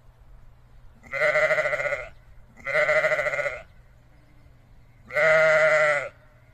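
A sheep bleating three times, each call about a second long with a wavering pitch, separated by short pauses.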